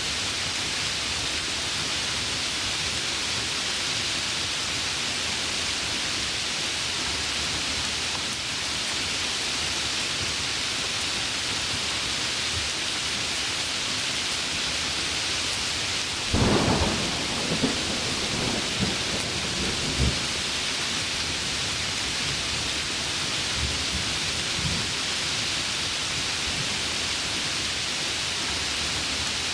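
Heavy rain falling steadily as an even hiss, with a sudden crack of thunder about halfway through that rolls and rumbles for a few seconds before fading back into the rain.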